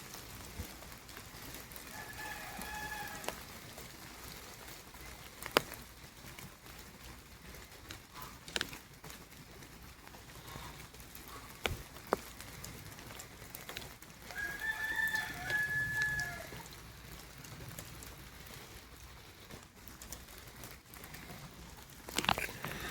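A rooster crowing twice, once about two seconds in and again, longer and louder, about fourteen seconds in, over a light patter of rain with a few sharp taps.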